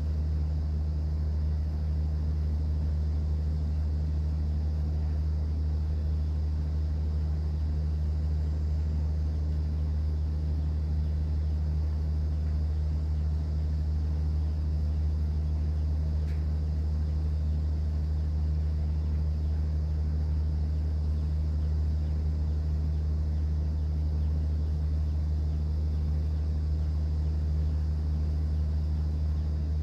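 Cruise boat's engine running with a steady low drone.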